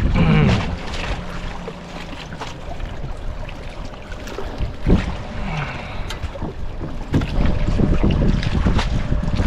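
Wind buffeting the microphone over water sloshing around a kayak, the rumble easing off after the first second or so and rising again later, with a single sharp knock about five seconds in.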